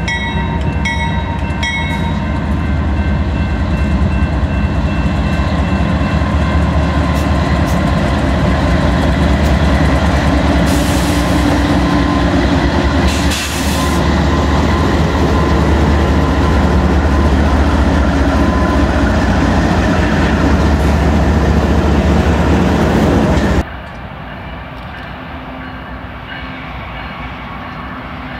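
A BNSF freight train passing close by. Its diesel locomotives rumble loudly, and the air horn sounds for the first couple of seconds. The double-stack container cars then roll past with a steady rumble until the sound drops abruptly near the end to a quieter, more distant train.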